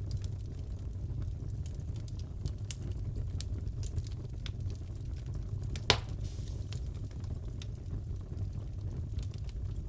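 Wood fire crackling in a fireplace: a steady low rumble of burning with scattered small pops and crackles, and one louder snap a little past halfway.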